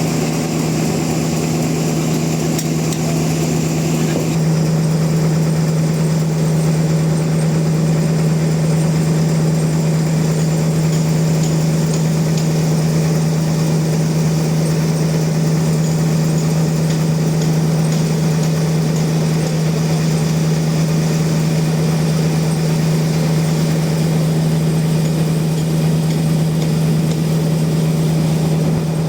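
Sawmill machinery running steadily with a constant low hum. About four seconds in, the sound shifts: the higher hiss fades and the hum grows stronger.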